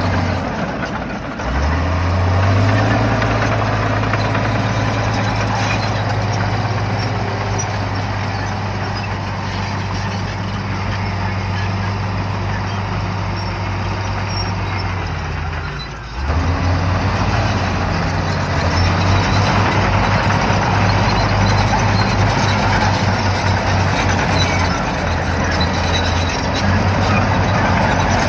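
Shantui bulldozer's diesel engine running under load. Its note dips briefly about a second and a half in, then comes back at a higher pitch. It drops sharply again about halfway through and picks back up.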